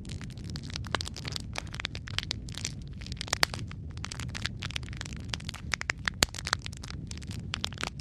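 Wood fire crackling: a steady low rumble with frequent, irregular sharp pops and snaps, a couple of them louder than the rest.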